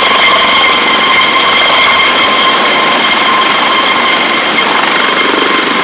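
Rescue cutting equipment working on a crashed car during casualty extrication: a loud, steady, high-pitched mechanical whine and screech, holding one pitch throughout.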